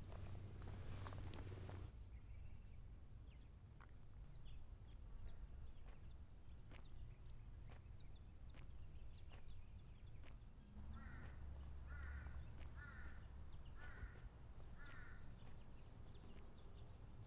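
Quiet outdoor ambience in which a bird calls five times in a row, about once a second, a little past the middle, with a higher chirp a few seconds before.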